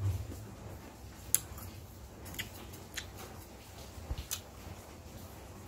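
Crisp crunching of unripe green mango being bitten and chewed: a few short, sharp crunches spaced a second or so apart, the loudest about a second in.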